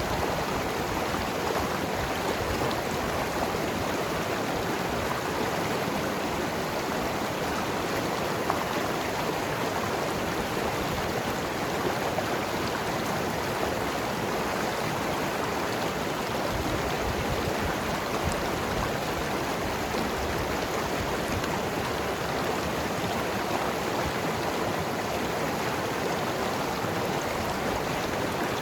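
Mountain river flowing over rocks: a steady rush of water with gurgling.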